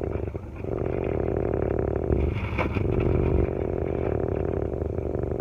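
Steady low hum of a car's idling engine heard inside the cabin, with a brief noise about two and a half seconds in.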